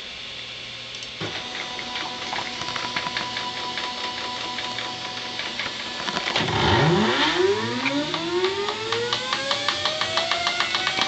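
NEMA 23 stepper motors of a home-built CNC gantry start about a second in with a steady whine and fine clicking. From about six seconds in, the whines sweep up and down in pitch as the X and Y axes speed up and slow down to trace a circle.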